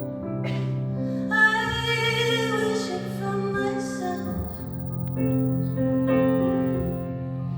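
Slow, tender piano ballad with a woman singing long held notes over soft piano chords.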